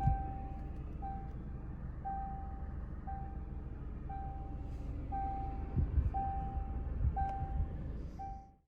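Cabin warning chime of a 2020 Jaguar XE, a steady mid-pitched tone beeping about once a second, nine times, over a low engine and road rumble with a couple of dull thumps. The sound cuts off abruptly just before the end.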